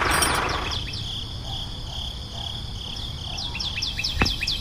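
A small engine's running noise dies away within the first second. It leaves insects chirping in a steady pulsing rhythm and quick repeated bird chirps that grow busier near the end, with one sharp click about four seconds in.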